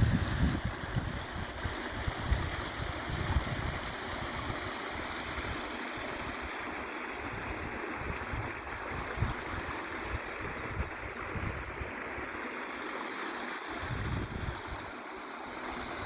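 Mountain stream water running steadily over rocks, with wind buffeting the microphone now and then, most strongly in the first few seconds.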